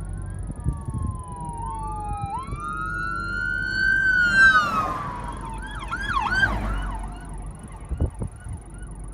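Emergency vehicle siren wailing in a slow fall and rise, then a few quick yelping sweeps, after which it dies away.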